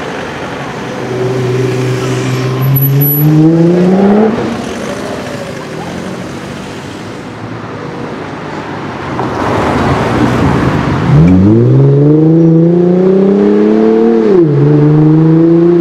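Sports car engine accelerating hard. Its pitch climbs for a few seconds and drops at a gear change about four seconds in. After a rush of noise near the middle, it climbs again, drops at another shift, and holds.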